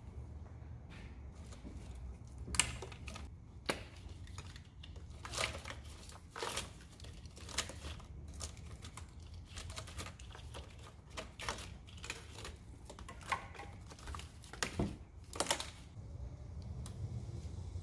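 Irregular plastic clicks and rustling from hands unclipping the electrical connectors of a Chevy LS 5.3 engine's wiring harness, such as the fuel-injector plugs, with a steady low hum underneath.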